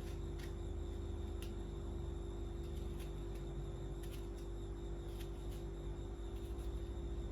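A steady low hum with faint, light ticks scattered irregularly through it.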